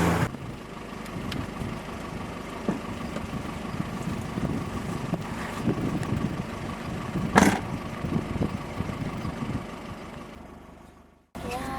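A steady rumble like a motor vehicle running, with scattered clicks and one sharp knock about seven seconds in; it fades out and cuts off near the end.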